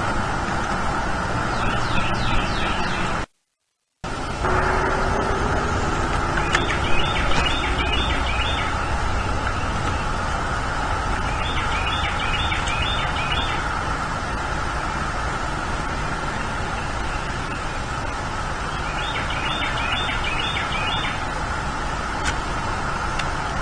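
A bird calling in short runs of quick, repeated high chattering notes, four runs in all, over a steady outdoor background noise. The sound cuts out for under a second about three seconds in.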